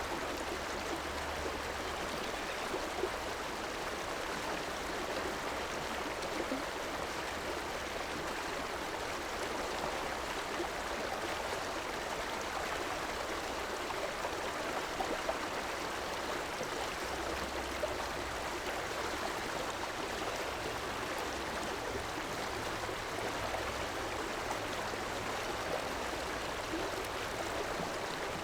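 River water running over rocks in a steady rush, with small splashes and gurgles through it. A faint low rumble comes and goes beneath it.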